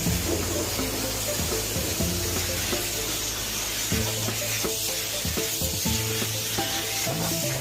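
High-pressure rinse wand spraying water onto a car, a steady hiss, with music playing underneath.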